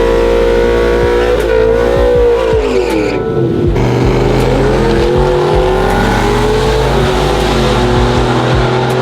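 Race trucks' engines at full throttle during a drag run. The engine pitch falls sharply about two to three seconds in, then climbs again.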